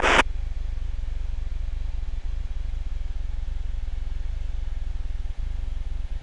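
Steady low drone of an aircraft engine heard inside the cockpit through the intercom, with a faint hiss over it.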